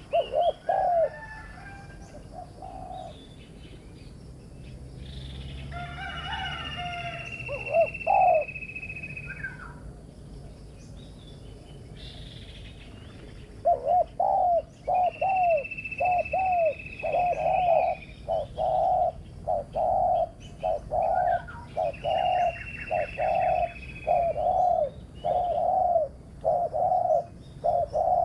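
Spotted doves cooing: a few low coos early, then a long fast series of repeated coos from about halfway. Three times another bird gives a long, slightly falling high note.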